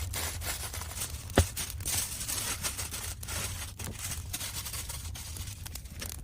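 Heavy aluminium foil crinkling and crackling as it is folded tightly and crimped around a rack of ribs, with one sharp click about a second and a half in.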